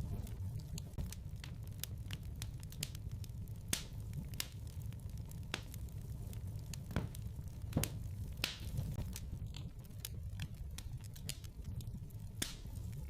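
Wood fire crackling in a fireplace: irregular sharp pops and snaps of burning logs over a steady low rumble of the flames.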